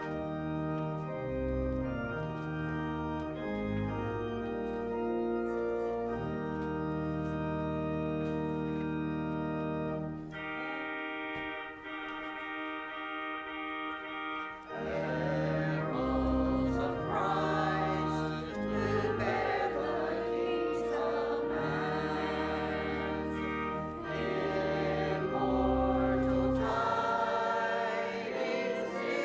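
Church organ playing a hymn introduction in sustained chords over deep bass notes. About fifteen seconds in, a congregation joins in singing the hymn with the organ.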